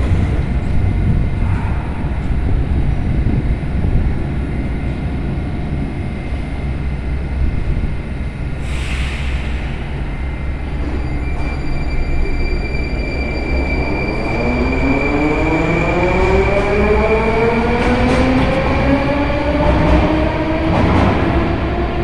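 Metro train of type 81-740 pulling out of a station. A steady low rumble, a brief hiss about nine seconds in, then from about fourteen seconds the traction motors' whine rising steadily in pitch as the train speeds up.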